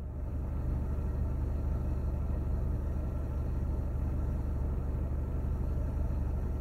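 A car engine idling, a steady low hum heard inside the cabin.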